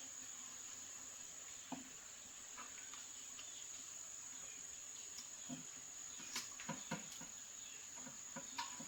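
A steady high-pitched insect chirring, with a few faint clicks and knocks scattered through it, most of them in the second half.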